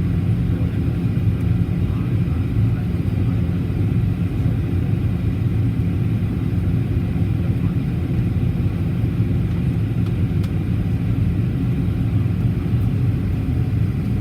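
Steady cabin drone of a Boeing 737-800 in flight, heard from inside the cabin near the front: a deep, even rumble of airflow and CFM56-7B jet engines, with no change in pitch or level.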